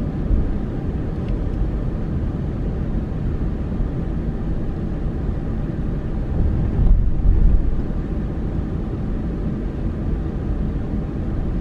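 Steady low rumble of road and engine noise from a moving car, swelling briefly about seven seconds in.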